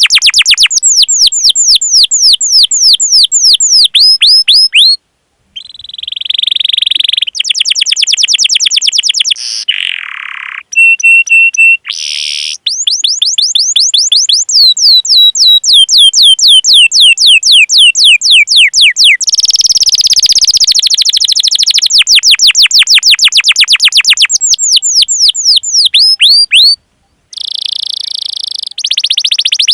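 Domestic canary singing long, fast rolled trills of rapid falling whistled notes, the 'cuit cuit' call, with a few changes of phrase and two brief silent breaks, about five seconds in and near the end.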